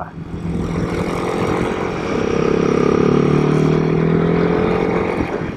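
Royal Enfield Himalayan 452's single-cylinder engine running steadily under way, with a hiss of wind and road noise.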